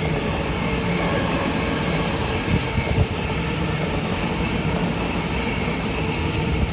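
Double-deck electric suburban train running past at close range and pulling away: a steady rumble of wheels on rail under a constant hum, with a couple of sharp wheel knocks over the rail joints about two and a half to three seconds in.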